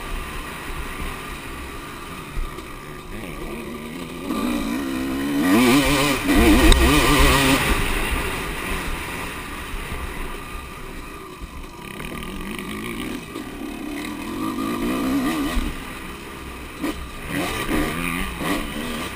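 Motocross bikes' engines revving and rising in pitch as they pass, loudest about six to seven seconds in, with more bikes going by in the second half and near the end.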